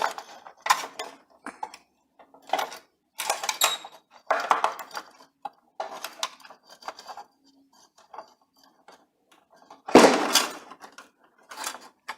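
Irregular metallic clattering and clicking as an electric grill's metal casing and switch are handled and the switch is worked loose from the housing. There is a louder knock about ten seconds in.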